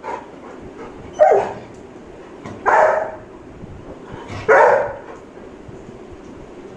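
A dog barking three times, about a second and a half apart.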